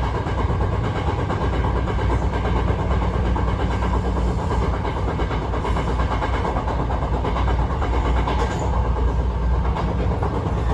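Hankyu 1000 series electric train (set 1013F) running with a steady, continuous clattering rattle, which the uploader suspects may be a fault.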